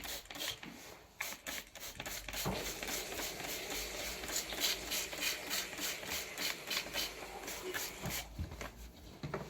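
Refrigerator condenser being cleaned: a fast, rhythmic hissing and rubbing, several strokes a second, that picks up about two and a half seconds in and dies down near the end.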